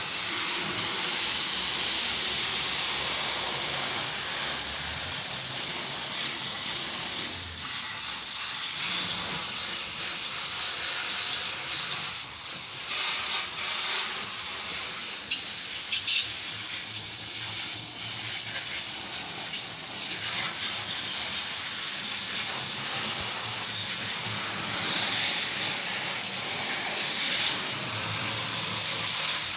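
Garden hose spraying water steadily over a car engine bay, rinsing off the degreasing wash; the hiss shifts a little in strength as the stream moves across the engine.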